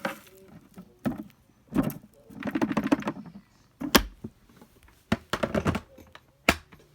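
Handling noise with no vacuum motor running: a string of sharp clicks and knocks, about six in all, with a couple of brief rustling scrapes between them.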